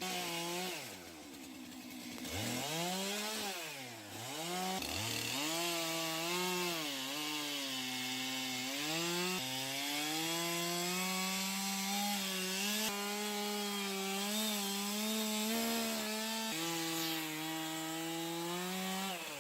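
Two-stroke chainsaw revving up and down a few times, then running at a steady high pitch while cutting wood.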